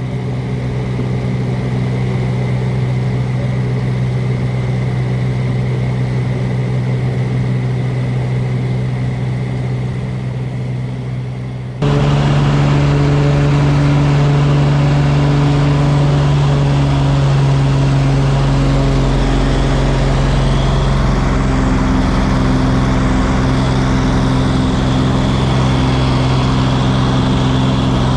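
Small seaplane's engine and propeller running steadily, heard from inside the cabin; the sound gets suddenly louder about twelve seconds in.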